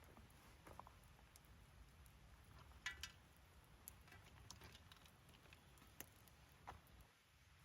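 Faint, sparse crackles and pops of a wood campfire, a few scattered sharp ticks, the loudest cluster about three seconds in.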